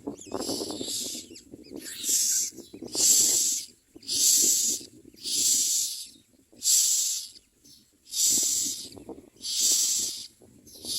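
Common myna nestlings giving harsh, hissing begging calls: about eight rasping bursts, roughly one a second, as they scream for food.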